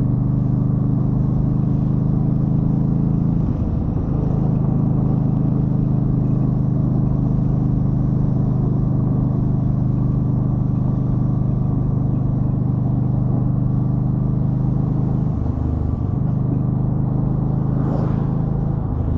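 2013 Yamaha Stryker's V-twin engine running steadily while the motorcycle is ridden, the engine note breaking briefly twice, a little after three seconds and about fifteen seconds in. A short sharp sound comes near the end.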